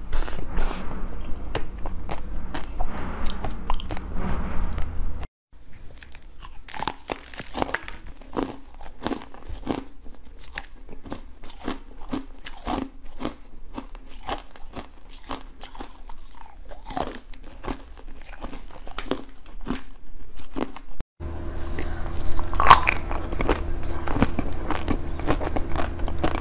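Close-miked biting and chewing of jelly candies, with many short sharp clicks from each bite and chew. The sound changes abruptly twice as one eating clip cuts to another: first a rainbow jelly piece, then red fish-shaped jelly gummies, then a white ball-shaped snack.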